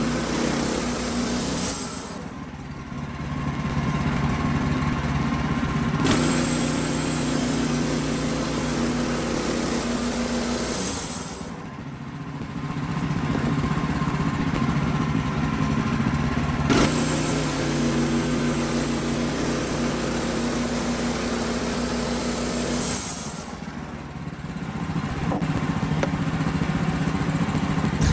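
Wood-Mizer LX55 portable sawmill's engine running steadily; its sound dips three times, about two, eleven and twenty-three seconds in, then comes back up.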